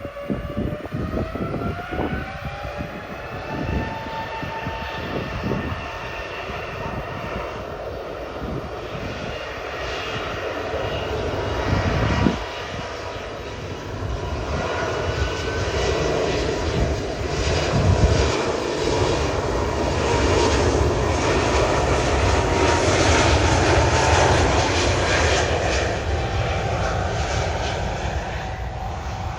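Turbofan engines of an Airbus A320neo landing: a whine that rises in pitch over the first few seconds, over a broad jet roar that grows to its loudest about two-thirds of the way through and eases slightly near the end.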